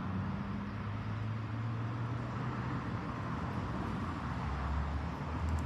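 Steady low rumble of motor traffic or a running vehicle engine, with a low hum that drifts slightly in pitch.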